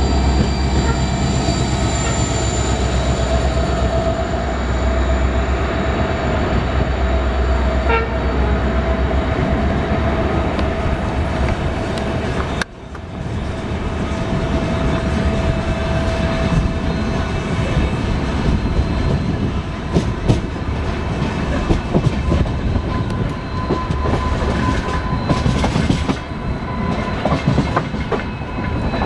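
Passenger train running on the track, heard from an open door or window of the coach: continuous rolling noise with a steady whine over the first part. After a brief dip a little under halfway, irregular sharp clicks of the wheels over rail joints.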